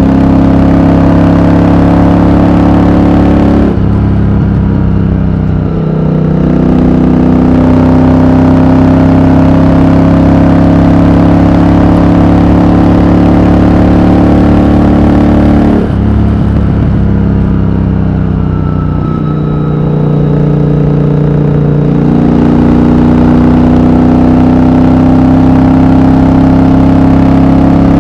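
Triumph Thunderbird Storm's 1700 cc parallel-twin engine pulling under load at speed, its pitch slowly rising. It breaks off sharply about four seconds in and again about sixteen seconds in, each time picking up again at a lower pitch, like gear changes, and eases off briefly a few seconds later before running steadily again.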